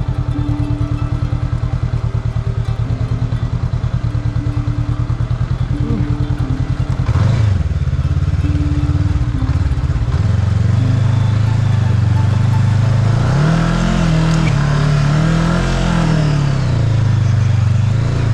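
Motorbike engine running while riding, with a jump in level about seven seconds in and its pitch rising and falling several times as the throttle is opened and closed.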